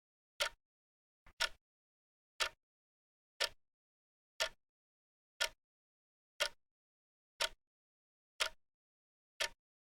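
Wristwatch ticking steadily once a second, each tick a short crisp click with silence between. The second tick has a faint extra click just before it.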